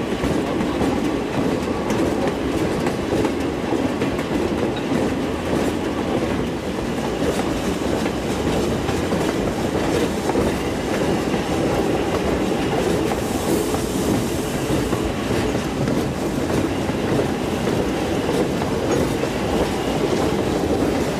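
A log train pulled by a Lima Shay geared steam locomotive rolling along the track, heard from aboard one of its cars: a steady rumble and rattle of steel wheels on the rails.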